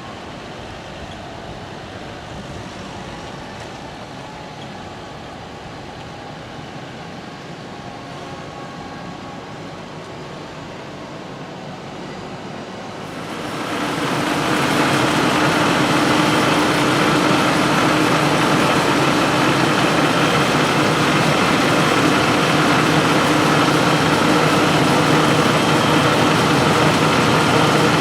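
Heavy diesel farm machinery running steadily. About halfway through the sound jumps much louder and stays loud, with a steady engine drone and whine from a machine working close by.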